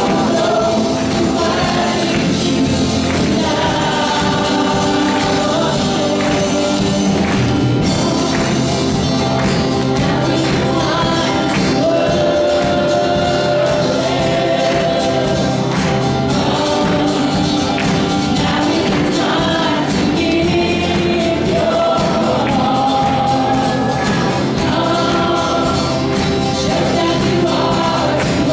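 Church worship team singing a gospel praise song with live band accompaniment and a steady percussion beat.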